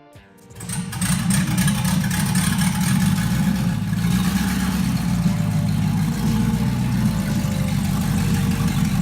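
Land Cruiser's swapped-in 5.3-litre LS V8 engine running steadily, coming in sharply about half a second in. Faint background music plays underneath.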